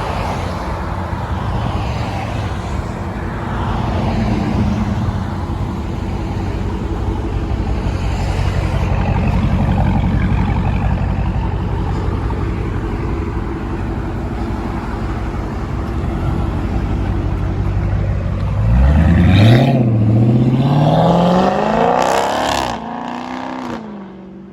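Hemi V8 muscle-car engine idling with a steady low rumble, then revved twice near the end, the pitch climbing, dipping and climbing again before falling back.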